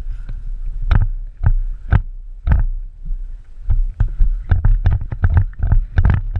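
A run of short thumps, about two a second at first, then quicker and denser past the middle, over a low rumble on the microphone. The pattern fits footsteps of a player moving with the camera, speeding up toward a run.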